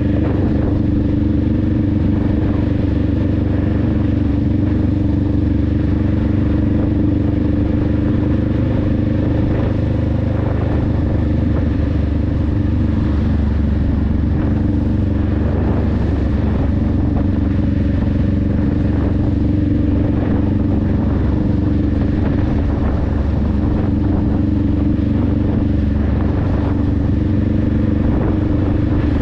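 Honda Rebel 500's parallel-twin engine and exhaust running at a steady cruise, with wind and road rush. The engine note holds nearly constant, shifting briefly around the middle.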